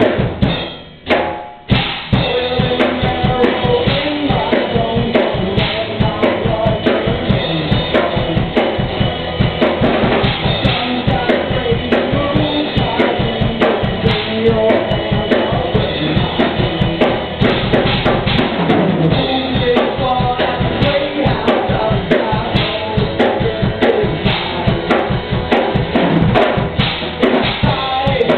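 Live rock band playing an instrumental passage with the drum kit out front, kick and snare driving a steady beat. The band stops briefly about a second in, then everyone comes back in together.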